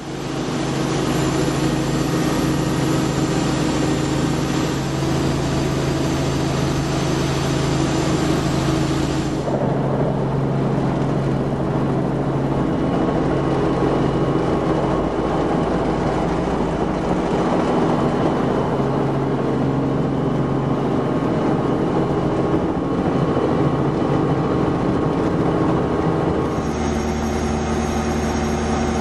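Robinson R44 Raven II helicopter with its six-cylinder Lycoming IO-540 engine running: a loud, steady drone of engine and rotors with several steady tones. Its character changes abruptly about nine seconds in and again near the end.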